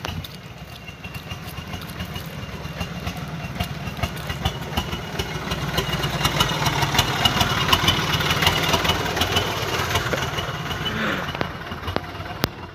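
Toyota Dyna truck's engine running, growing louder around the middle and easing off near the end, with many clicks and knocks from the truck over it.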